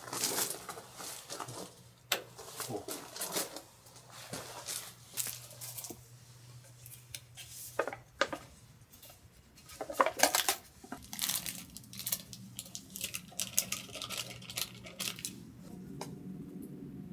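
Food-preparation handling sounds: irregular rustling, tearing and crinkling with light clinks of dishes and utensils. A steady low hum joins in during the second half.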